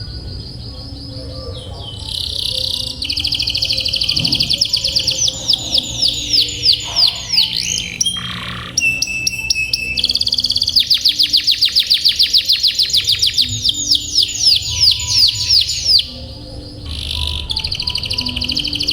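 Domestic canary singing long, fast rolling trills of high repeated notes, the phrases changing every few seconds, with short breaks near the middle and again near the end.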